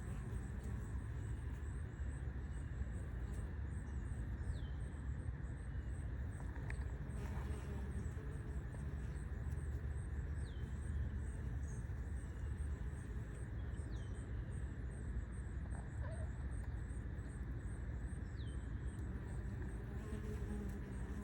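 Insect chirping in an even high pulse about twice a second, with a short falling call every few seconds, over a steady low rumble.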